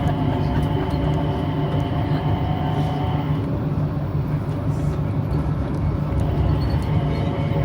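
Changi Airport Skytrain running, heard from inside the car: a steady rumble with a motor whine. Part of the whine drops away about three seconds in and comes back near the end.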